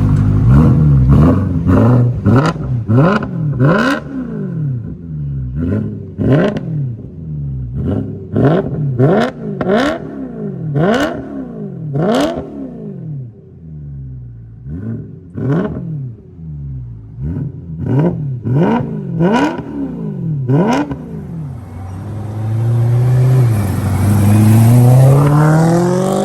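2012 BMW M3's 4.0-litre V8 through a Kinney's Street Demon performance exhaust, revved in a long series of quick sharp blips that rise and fall, then a longer steady climb in revs near the end.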